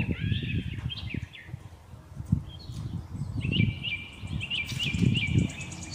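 Small birds chirping: a few calls at the start, then a quick run of short chirps about three a second through the second half. Under them, irregular low knocks and rustles from the table.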